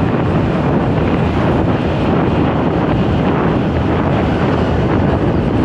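Loud, steady wind buffeting the microphone of a motorcycle moving at speed, with road and vehicle noise mixed in.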